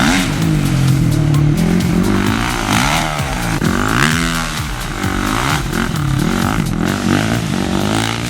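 Several motocross bikes revving on a track, their engine notes repeatedly rising and falling and crossing one another.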